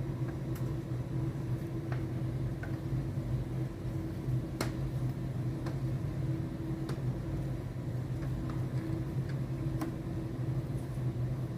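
Steady low hum with a few sharp, scattered clicks and taps as the LED TV's plastic parts and screen panel are handled and clipped into place. The loudest click comes about halfway through.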